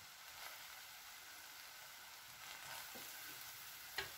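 Faint, steady sizzle of rice and vegetables cooking over low heat in a pan. A spatula clicks against the pan once near the end as mixing begins.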